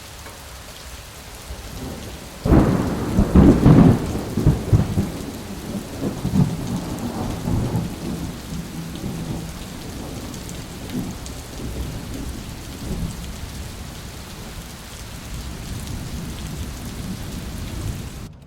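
Severe thunderstorm: steady heavy rain, and about two and a half seconds in a loud clap of thunder that rumbles on and dies away over several seconds.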